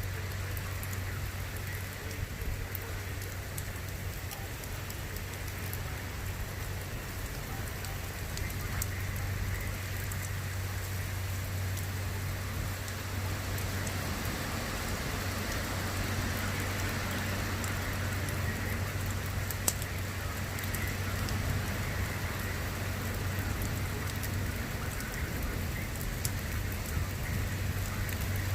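Steady rain falling during a thunderstorm, a continuous hiss with scattered drop ticks, over a constant low hum.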